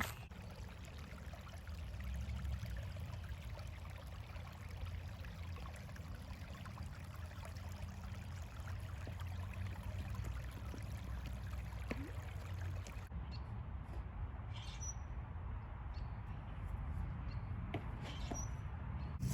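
Outdoor ambience: a steady low rumble of wind on the microphone over a soft hiss, with a few faint, short bird chirps in the second half.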